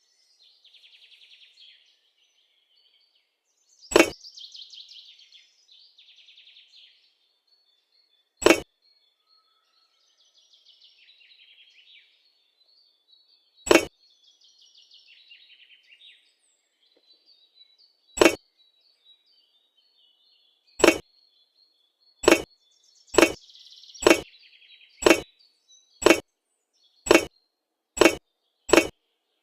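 Sharp, short knocks, at first several seconds apart, then quickening to about one a second in the second half, with birds chirping between them.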